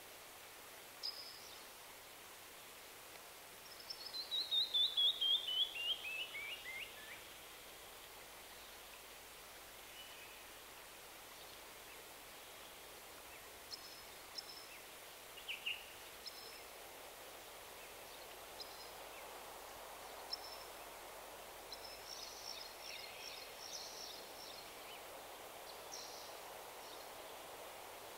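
Birds calling over a steady background hiss: a few seconds in, one bird gives a quick run of about a dozen notes falling in pitch, and short high chirps come and go through the rest.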